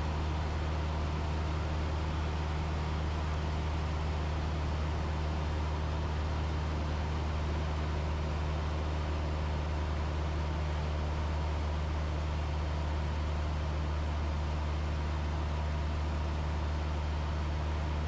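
Cessna 172's four-cylinder Lycoming engine and propeller droning steadily in cruise, heard from inside the cabin as a low, even hum with a hiss over it.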